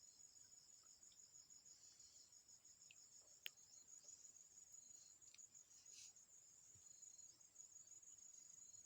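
Crickets trilling faintly and steadily in a high, rapidly pulsing tone, with one sharp click about three and a half seconds in.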